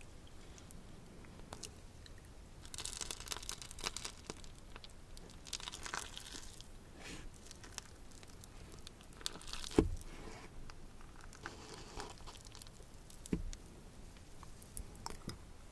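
Food being eaten in ASMR style: crunching and crinkling in several short bouts, with two sharp knocks, the louder one about ten seconds in.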